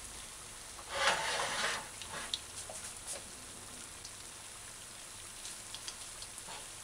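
Okra codfish fritters frying in shallow oil in a stainless steel pan: a faint steady sizzle with scattered small pops and crackles. About a second in, a louder burst of hissing lasts under a second.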